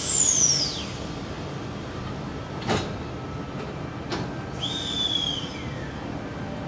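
Silver double-deck suburban electric train pulling slowly out of the platform, running with a steady rumble. A high squeal slides sharply down in pitch right at the start, two clanks follow, and a second high squeal holds and then falls away about two-thirds through.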